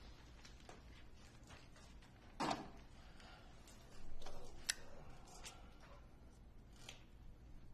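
Quiet room tone with a low hum, broken by a few soft knocks and rustles and one sharp click a little before the halfway mark.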